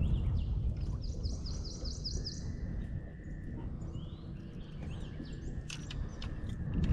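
Songbirds singing, one giving a quick run of about seven high down-slurred notes about two seconds in, with other chirps scattered through, over a steady low rumble.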